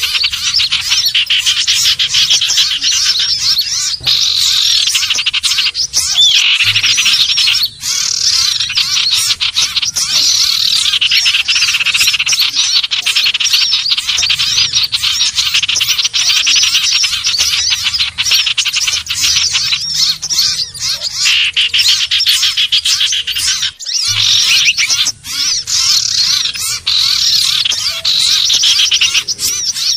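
Common iora (cipoh/sirtu) calling without pause: a dense run of high chattering chirps with a downward-sliding whistle repeating every few seconds, broken by a few brief gaps. It is a bird-lure recording meant to draw other ioras in.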